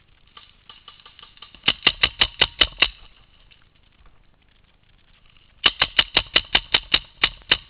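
Paintball marker firing rapid strings of shots, about six a second: a burst of about seven shots a couple of seconds in, then about a dozen more near the end, with scattered fainter shots around them.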